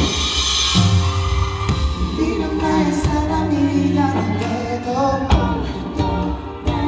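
Live pop concert music over a large hall's PA: a melody gliding over a heavy, steady bass, with a few sharp beats.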